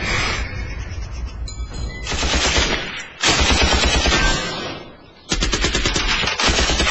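Machine gun firing in long rapid bursts, starting about two seconds in, with two short breaks.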